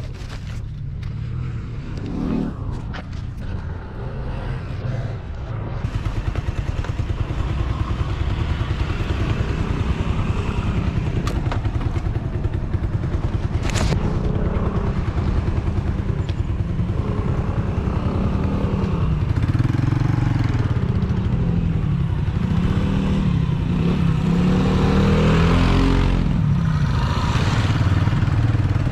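Restored SYM Wolf 125 motorcycle's single-cylinder four-stroke engine running on a test ride. It grows louder about six seconds in, and its pitch rises and falls in the second half as the throttle opens and closes.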